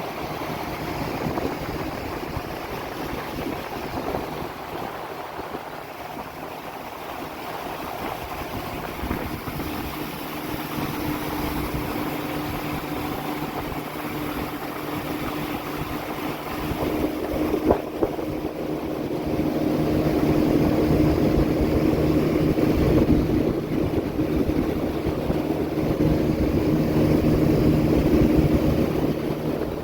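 Outboard motor pushing a small boat along, running steadily, with water and air rushing past. The engine note grows louder and stronger about two-thirds of the way through.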